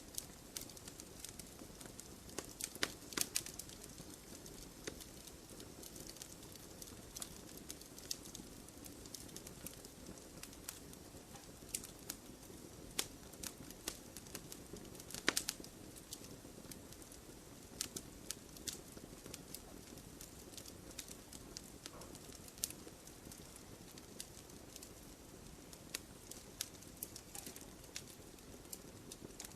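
Wood fire crackling, with sharp irregular pops and snaps over a soft steady hiss of burning.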